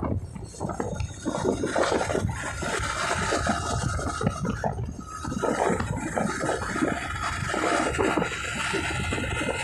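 Wind rushing and buffeting over the microphone of a moving Honda TMX 125 motorcycle, gusting unevenly, with a thin steady whine running underneath.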